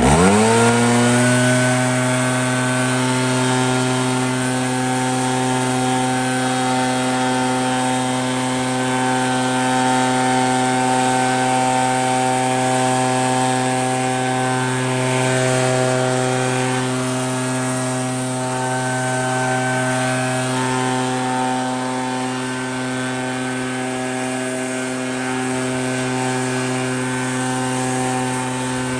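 Echo PB-8010 backpack leaf blower's two-stroke engine revving up to full throttle in the first second, then held steady at full throttle with the rush of air as it blows snow.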